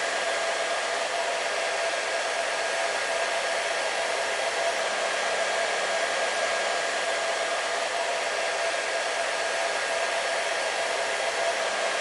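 Hair dryer blowing steadily: an even rushing of air with a constant motor hum, held without change.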